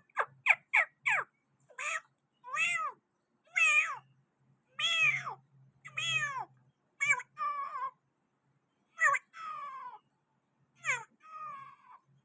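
Green parrot calling in a series of short, arching calls: a quick run of four in the first second, then about one call a second with short pauses between them.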